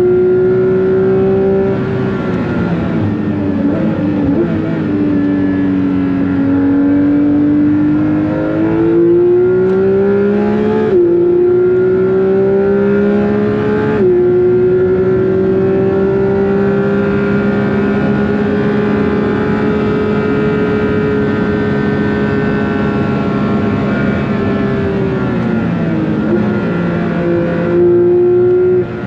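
Porsche 911 GT3 (992.2) 4.0-litre naturally aspirated flat-six under hard acceleration on track. The revs sag, then climb, with two quick upshifts about eleven and fourteen seconds in. A long steady pull follows before the revs drop off near the end.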